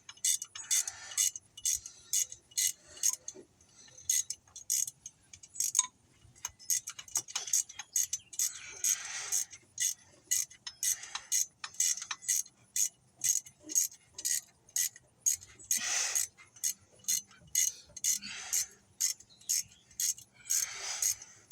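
Steady, evenly spaced clicking, about two to three clicks a second. Brief rasping scrapes break in now and then.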